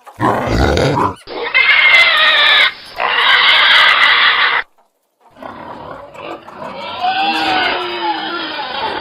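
Domestic pigs calling. A short low grunt comes first, then about three seconds of loud, high-pitched squealing. After a brief break, more squeals and grunts follow at a lower pitch.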